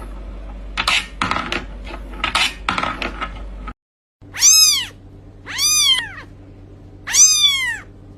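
A cat meowing three times in the second half, each high meow rising then falling in pitch. Before that come several short, scratchy sounds.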